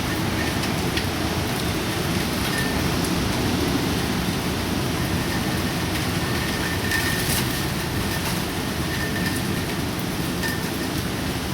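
Typhoon wind and rain: a steady, dense rushing noise, heaviest in the low end, with a few faint clicks.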